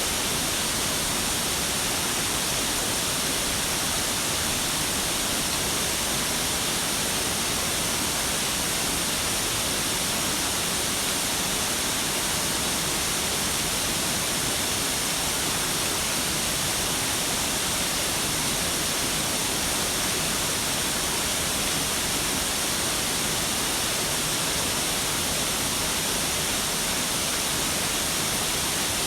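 A waterfall's water falling in a steady, even rush, mostly a bright hiss with little low rumble.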